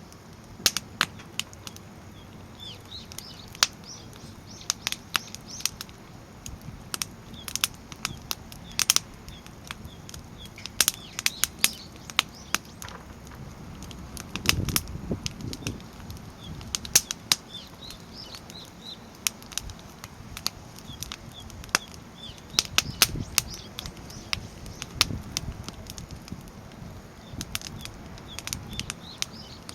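Wood fire of split logs stacked log-cabin style in a steel fire pit, crackling with irregular sharp pops. The flames swell into a low rushing sound about halfway through and again a little later.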